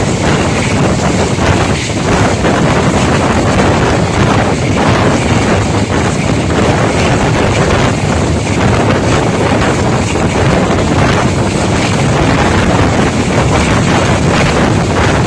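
Wind rushing over the microphone held at the open window of a moving passenger train, over the steady rumble of the coaches running on the track.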